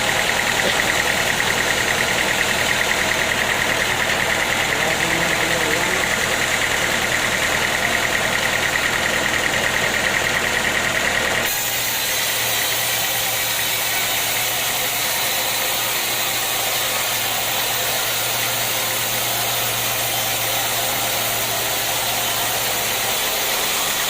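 Sawmill machinery running steadily, an engine-driven saw with a steady high whine. About halfway through the sound changes abruptly: the whine drops out, a hissier sound takes over, and a low hum runs on until shortly before the end.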